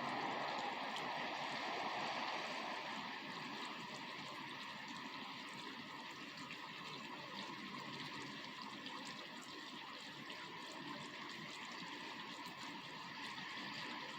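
Rain falling: a steady hiss of water with faint scattered drop ticks, a little louder for the first couple of seconds.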